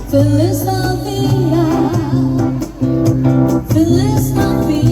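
A girl singing a song with vibrato over amplified backing music with guitar, through a PA sound system.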